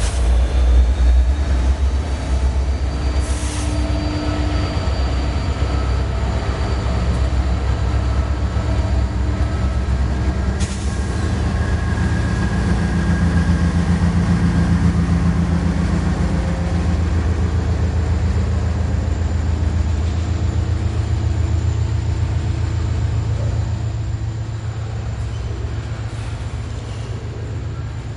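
A train running on the rails, a steady low rumble with a faint squeal from the wheels around the middle, easing off a little near the end.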